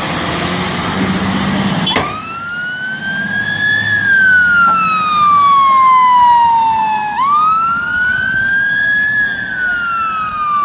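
Fire engine turning out: its engine runs, then about two seconds in the siren starts and sounds a slow wail, rising and falling in pitch twice.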